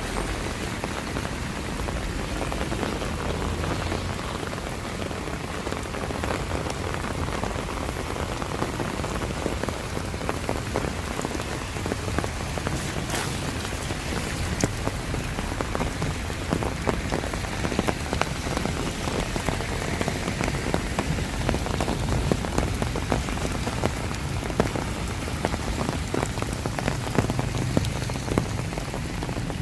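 Steady rain falling, with many close drops landing in sharp ticks that come more thickly in the second half.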